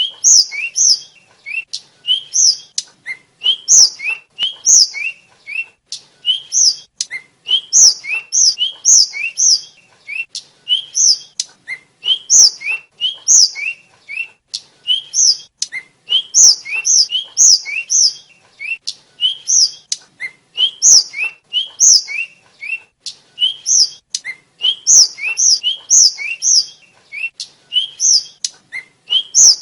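A flycatcher (tledekan/sikatan) singing: short, high whistled notes delivered in quick clusters of two to four, repeated over and over.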